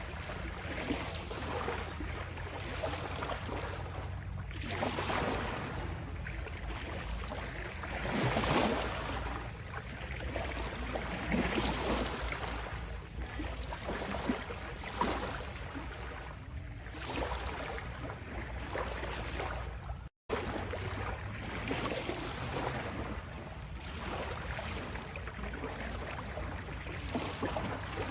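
Small sea waves lapping on a shore, washing in and out in gentle swells every few seconds. The sound cuts out for a split second about twenty seconds in.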